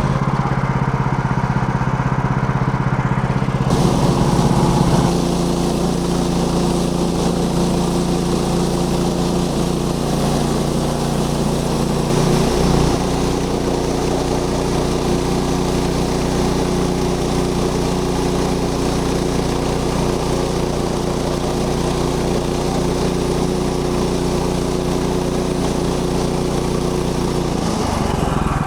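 Engine of a Woodland Mills HM130 Max bandsaw sawmill running steadily. Its note shifts about five seconds in and changes again near the end.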